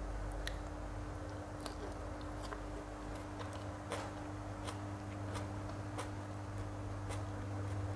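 A person chewing a mouthful of food with the mouth closed, making soft wet mouth clicks about once a second over a steady low hum.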